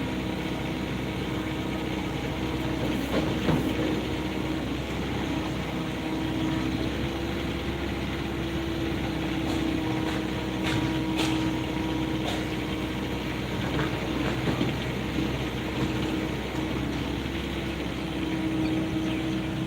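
Excavator's diesel engine running steadily under load, with a few short metallic clanks and scrapes about three seconds in and again around ten to twelve seconds in.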